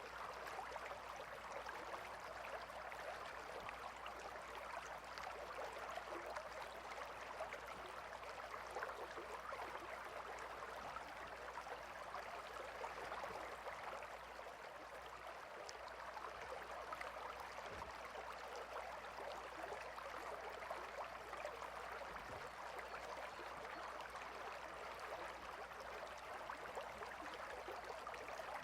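Gently flowing river water: a steady, even babble of running water with fine splashing texture.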